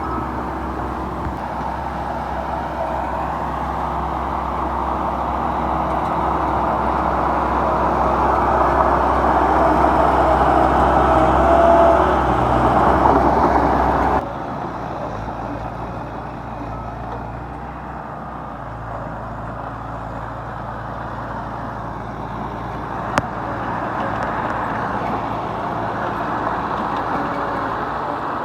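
Heavy diesel construction machinery engine running steadily, growing louder over the first half, then dropping suddenly to a quieter, lower engine sound about halfway through. A single sharp click near the end.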